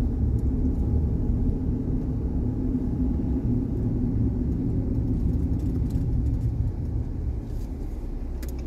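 Car road and engine noise heard from inside the cabin while driving: a steady low rumble that eases off a little near the end.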